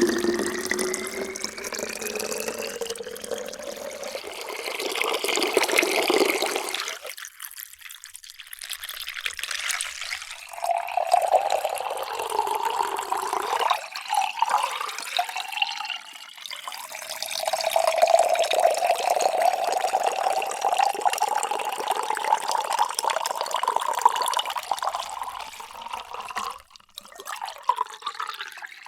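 Water being poured into a vessel, the hollow ring of the filling container rising steadily in pitch as it fills. The first pour stops about a quarter of the way in, a second pour starts a few seconds later and runs until near the end, and a third begins just before the end.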